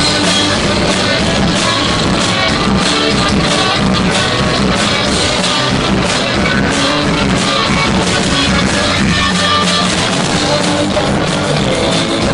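Rock band playing a song live, loud and dense, with electric guitars and drums.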